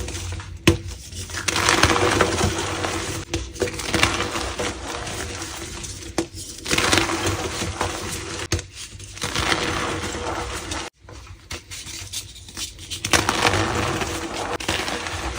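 Green-dyed gym chalk being crushed, with gritty, powdery crunching and small crackles in several bouts separated by short pauses.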